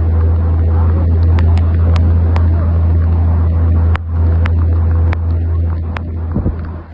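Vehicle engine and road noise heard from inside the cab as a steady low drone, with scattered sharp ticks over it. The drone dips briefly about four seconds in and fades near the end.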